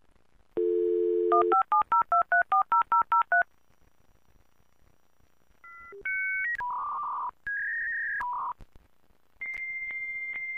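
A telephone line: a steady dial tone, then a quick run of about a dozen touch-tone digits being dialed. A few seconds later come a string of short electronic beeps and then a steady high tone, like the call connecting.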